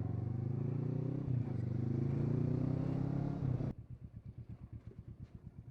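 Kawasaki Versys 650 parallel-twin engine running steadily under way with a rider and pillion aboard. About three and a half seconds in, the sound cuts abruptly to a quieter engine sound that pulses evenly, several beats a second.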